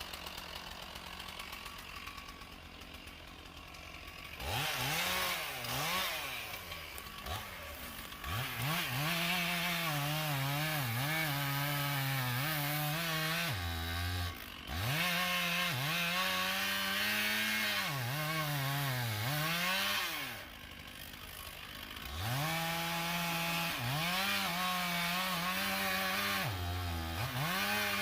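Two-stroke chainsaw idling, then revved up and cutting oak, its engine pitch repeatedly sagging and recovering as the chain bites into the wood. It eases off briefly about two-thirds of the way through the first cut, drops back to idle for a couple of seconds past the middle, then goes back to full-throttle cutting.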